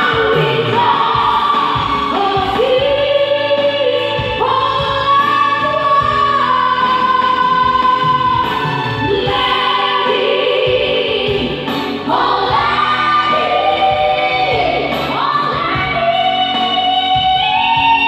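A woman singing a slow song with long held notes and vibrato, over musical accompaniment.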